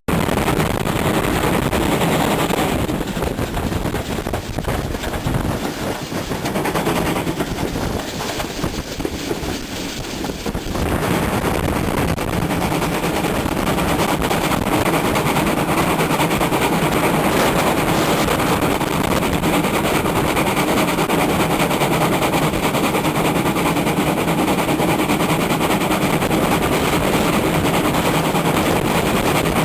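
GWR 5700-class 0-6-0 pannier tank steam locomotive No. 5786 running, its rapid exhaust beats mixed with heavy wind noise on the microphone, growing louder about eleven seconds in.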